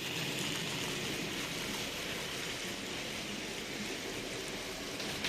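Steady, even hiss of background noise, with no clicks or rhythm.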